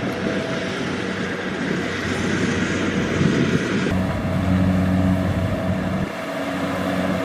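Kubota DC-70 Plus combine harvester's diesel engine running steadily under load as it harvests rice, with the machine's threshing clatter mixed in. The sound shifts abruptly about four seconds in and again about six seconds in.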